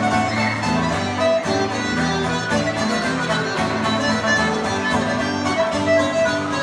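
Ceilidh band playing a lively traditional dance tune, a fiddle carrying the melody over guitar accompaniment.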